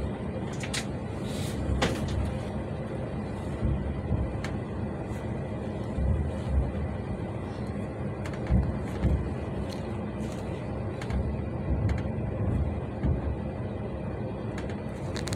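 Moving train running on the track: a steady rumble of wheels on rail, with low knocks coming in pairs about half a second apart as the wheels cross rail joints.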